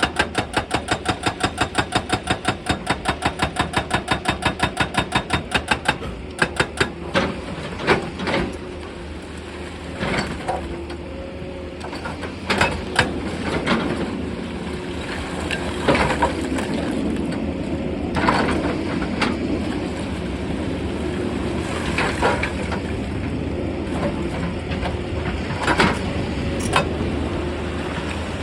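Excavator breaking rock: a rapid, even hammering of about seven or eight blows a second that stops about six seconds in. After that the diesel engine runs steadily under scattered knocks and clanks of steel on stone.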